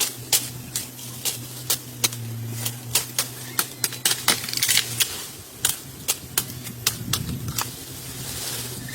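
A rapid, uneven series of sharp knocks or taps, roughly two to three a second, over a steady low hum.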